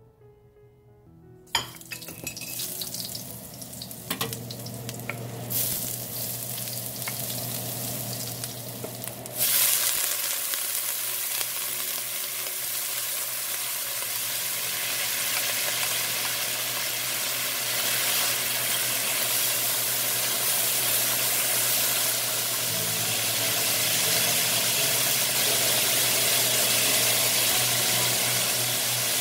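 Vegetables stir-frying in hot vegetable oil in a wok. The sizzle starts about a second and a half in and jumps suddenly louder about nine seconds in as more vegetables hit the oil, then holds as a steady loud sizzle.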